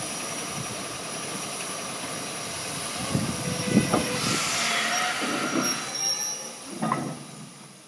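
Steam train hauled by an Austerity steam locomotive arriving at a station, its wheels squealing thinly on the rails. A few knocks and clanks come about three seconds in and again near the end, with a hissing rush in between, and the sound fades away at the close.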